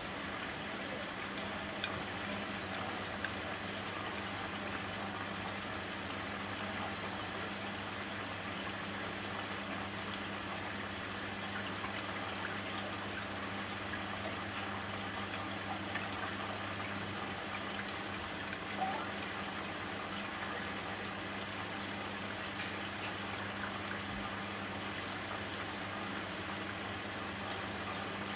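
Bosch washing machine on a synthetics 40 °C cycle, water trickling and sloshing steadily with a low hum. A sharp click comes about two seconds in, and part of the hum drops out a little past halfway.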